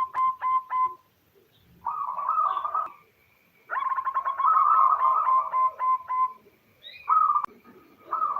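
Female zebra dove (perkutut) calling: runs of rapid, short, stuttering cooing notes, with one long run in the middle and shorter phrases around it. It is the female's call to a male.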